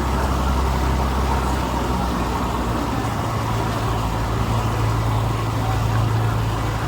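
A tour boat's engine running with a steady low drone over a rushing noise; the lowest hum fades and a slightly higher hum takes over about three seconds in.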